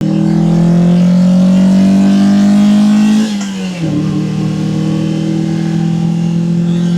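1998 Mazda MX-5 Miata (NB) stock 1.8-litre inline-four accelerating hard, its intake sound rising steadily in pitch for about three seconds. About three seconds in the pitch drops with an upshift, then climbs again more slowly as it pulls in the next gear.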